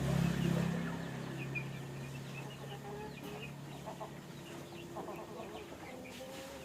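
Birds calling: many short high chirps throughout, with a few lower calls about four and five seconds in. A low hum, loudest at the start, fades during the first second.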